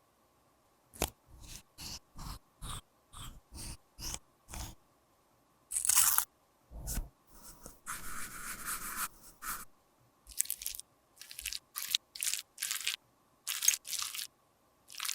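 Close-up crunching, tapping and scraping from handling makeup and lip-balm materials, heard as a run of short, sharp strokes about two a second, then a longer scratchy stretch and more short strokes.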